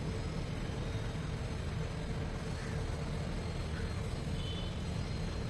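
Steady low rumble of passing road traffic, with a faint even hum and no tool strikes.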